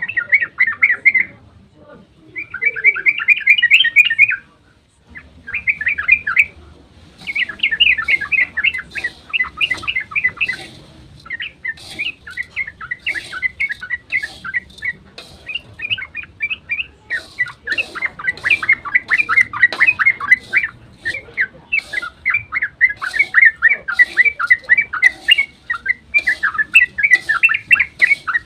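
Yellow-vented bulbul (trucukan) singing its rapid rolling chatter ('ropel'), a fast run of bubbly notes. The first few seconds are short bursts broken by pauses; from about seven seconds in the song runs almost without a break.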